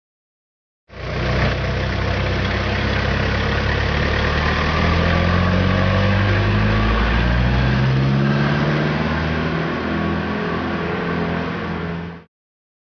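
Delivery van's engine running steadily, its pitch rising a little about seven seconds in as it revs. It starts and stops abruptly.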